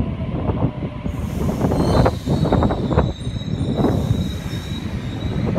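Sydney Trains Waratah electric double-deck train approaching through a curve: a steady low rumble with a run of sharp clacks from the wheels on the track about two seconds in, and a thin high squeal from the wheels that sets in at the same time and fades near the end.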